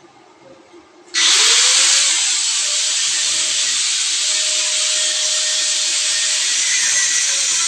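A power sprayer switches on about a second in. Its motor spins up and a loud, steady hiss of spray follows and keeps going.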